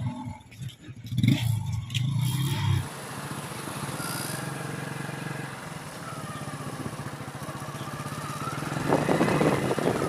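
TVS Apache 180 motorcycle's single-cylinder engine running as the bike is ridden: loud, uneven pulses for the first few seconds, then a steadier, quieter drone. Wind rushes over the microphone, rising near the end.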